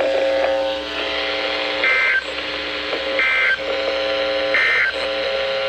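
NOAA Weather Radio's end-of-message SAME data burst, heard as three short buzzy bursts about 1.3 s apart that close the severe thunderstorm warning. Under them runs a steady electronic alarm tone with several pitches.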